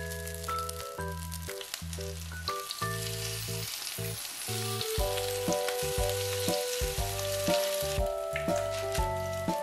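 Egg-battered gimbap slices sizzling as they pan-fry in oil, over background music with a melody and a stepping bass line. The sizzling thins out near the end.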